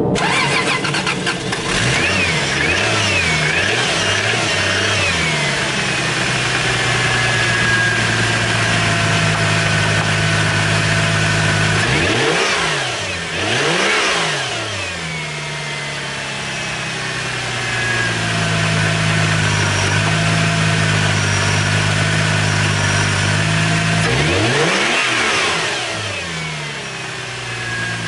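2004 Subaru Legacy Outback engine running just after a hard cold start. Its revs sag and climb again several times under the throttle, with steadier running in between.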